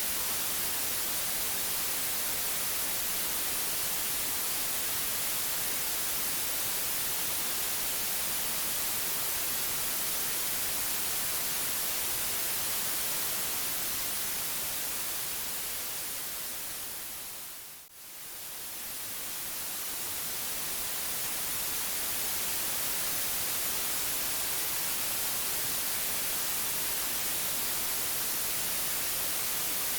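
Steady white-noise hiss, even and featureless and heaviest in the treble. About eighteen seconds in, it fades down to a brief dip and swells back up, as at a loop point in the track.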